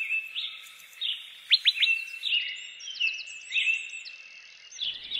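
Several songbirds singing at once: overlapping whistled phrases and trills, with a few quick, sharp downward-sweeping notes about a second and a half in that are the loudest.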